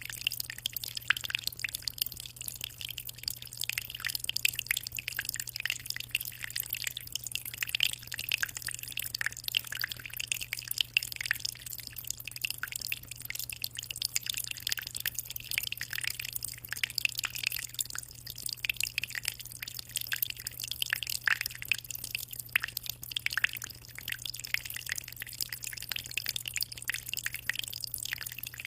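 Aquarium water trickling and splashing without a break, a dense patter of small drips and bubbles, over a steady low hum.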